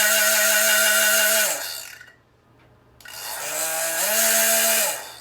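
Hair dryer's motor and fan running with a steady whine and a rush of air, then switched off and spinning down about a second and a half in. After a short pause it is switched on again, spins up, runs briefly and winds down again near the end.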